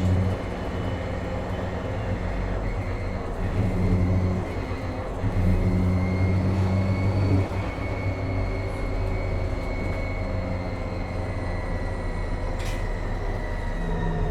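Interior ride sound of a MAN Lion's City NL253 Hybrid city bus under way: a high electric drive whine that holds, then falls in pitch toward the end, over a steady rumble. A deeper engine hum cuts in and out several times, and there is one sharp click about three quarters of the way through.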